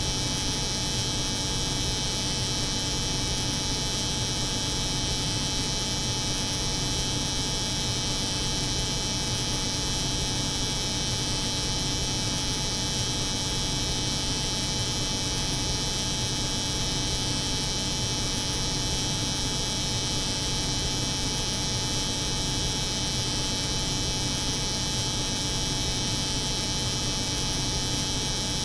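Layered steady drone of a cold-room refrigeration unit's hum and an electric hair clipper running continuously, with a low hum under a high buzzing hiss and no change throughout.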